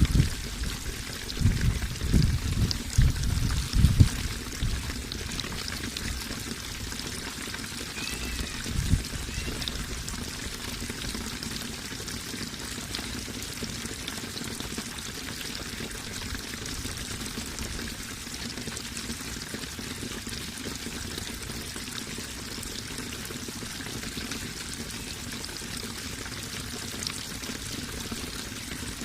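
Running water flowing steadily, with several low thumps in the first four seconds and one more about nine seconds in.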